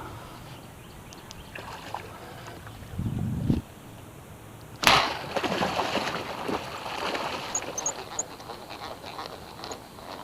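A low thump, then a sudden splash about five seconds in and several seconds of water splashing and sloshing as an arrow-shot fish, a bowfin, thrashes at the surface.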